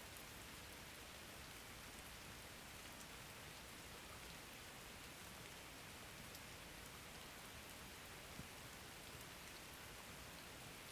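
Faint, steady rain: an even hiss of rainfall with a few single drops ticking now and then.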